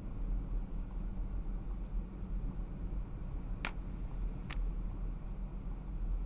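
Car driving, heard as a steady low road and engine rumble, with two sharp clicks a little under a second apart just past the middle.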